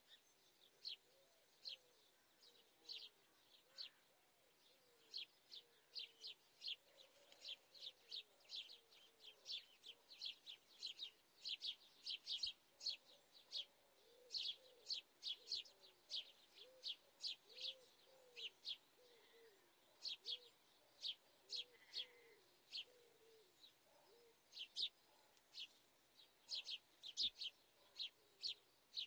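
Small birds chirping: short, high chirps repeated two or three times a second throughout, with fainter, lower wavering calls underneath.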